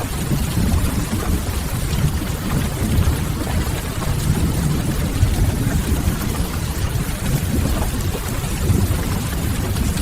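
Rain-and-fireplace ambience: steady rain hiss over a deep, continuous low rumble.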